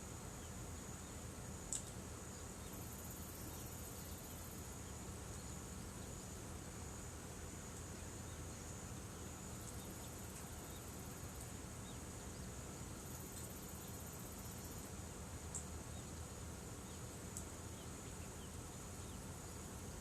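Insects chirring steadily in a high pitch, with a second, even higher trill coming and going in spells of a few seconds. A few sharp pops from the wood campfire stand out, one about two seconds in and two more near the end.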